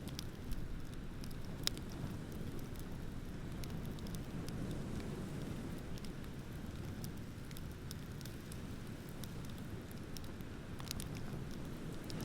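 Beach bonfire crackling, with sporadic sharp pops from the burning wood, the two loudest about half a second and nearly two seconds in, over a steady low rumble of ocean waves.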